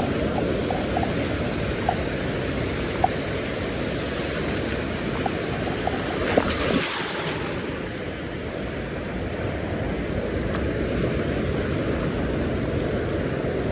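Surf on the beach with wind on the microphone: a steady rushing noise, with a few small clicks and a brief louder hiss about halfway through.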